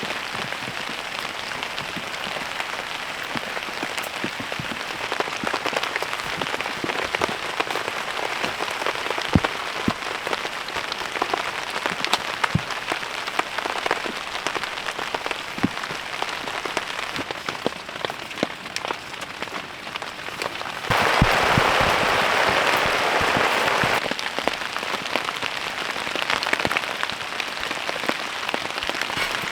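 Rain falling on a tarp and tent: a steady hiss dotted with many separate drop hits. About two-thirds of the way in, a louder, even hiss cuts in for about three seconds and stops suddenly.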